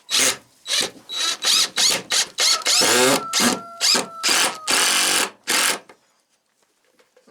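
Power drill run in a quick series of short trigger bursts while building a wooden roost, with a falling motor whine midway. It stops about six seconds in.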